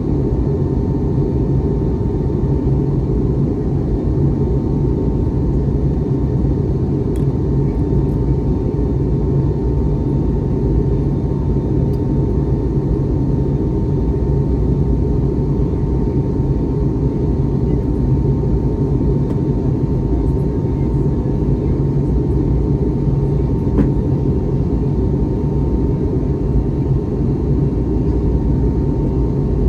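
Airbus A321neo cabin noise in flight: a steady low rush of engines and airflow with a faint, constant whine.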